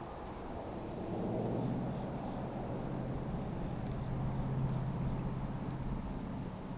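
Low, steady engine hum that sets in about a second in and holds, over a constant chorus of insects.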